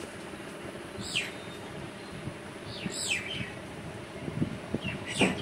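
A bird chirping three times, each a short call falling in pitch, about two seconds apart, over steady background noise with a few light knocks.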